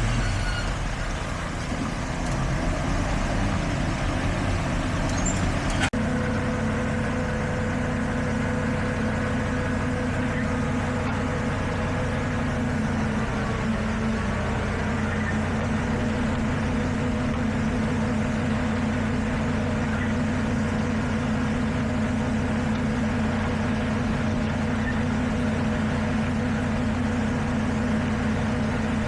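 Heavy diesel engine of road-construction machinery running steadily, with a brief click about six seconds in after which the engine note changes slightly.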